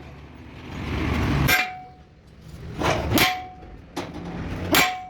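Hammer blows on steel: about three ringing metallic clangs, roughly a second and a half apart.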